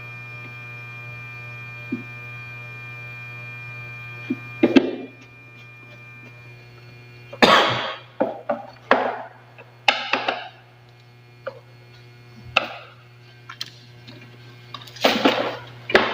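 A steady hum of several held tones cuts off about five seconds in. Then comes a run of irregular knocks, clunks and short scrapes, typical of plastic appliance parts being handled and fitted together.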